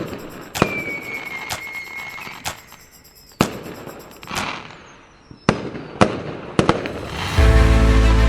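Fireworks going off: a string of sharp bangs, roughly one a second, with a firework's high steady whistle lasting about a second and a half shortly after the start. Music comes in near the end.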